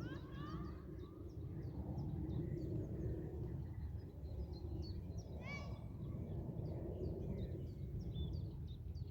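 A chorus of small songbirds chirping and singing, with a louder harsh call with several overtones about five and a half seconds in, over a steady low rumble.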